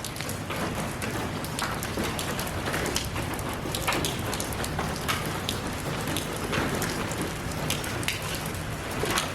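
Steady rain, with many separate drops striking a surface close by as distinct taps through the constant hiss.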